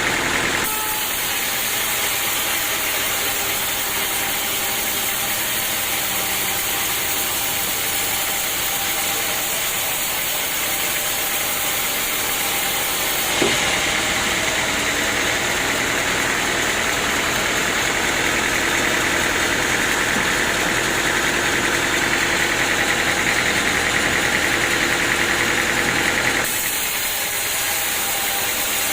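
Sawmill machinery running steadily, an engine-driven hum with a constant whir. Its tone changes abruptly about a second in, again about halfway with a single click, and once more near the end.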